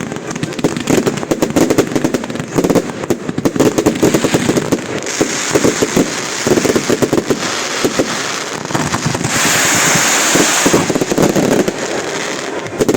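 Fireworks going off: dense rapid crackling and popping reports, with a hissing rush from about five to eleven seconds in.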